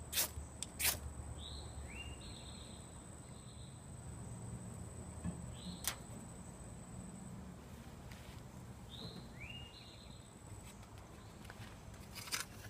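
Quiet outdoor ambience with a few sharp clicks and knocks, and a bird calling twice in short phrases of quick rising chirps.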